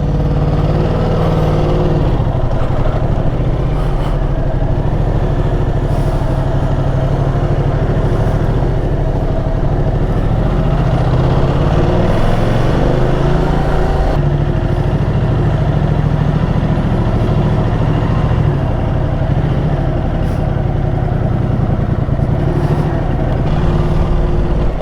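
Ducati Multistrada motorcycle engine running under way as the bike pulls off and rides on, its pitch rising in steps early on and bending up and down again midway with throttle and gear changes.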